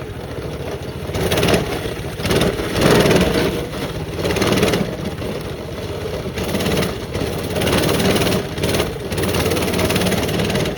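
Small off-road vehicle engine running steadily as it is ridden along a trail, its loudness swelling and dropping.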